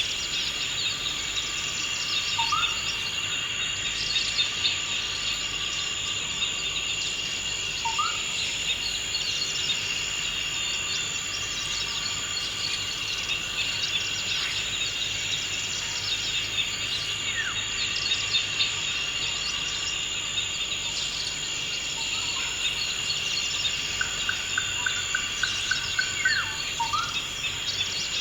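Forest ambience: a steady chorus of insects with many short bird chirps over it, and a bird giving a short upward-sweeping whistle every several seconds. A quick run of ticking notes comes near the end.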